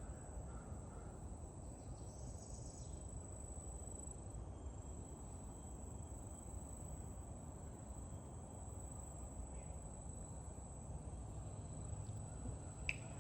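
Insects chirring as one steady, high-pitched drone over a low, even rumble. There is a single sharp click near the end.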